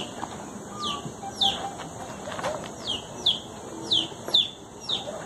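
A bird calling over and over: short, high chirps that each fall in pitch, about eight of them, some in quick pairs.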